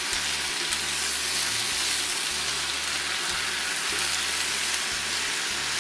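Chicken pieces and sliced tomatoes frying in oil in a deep pan, giving a steady sizzle as they are stirred with a spatula.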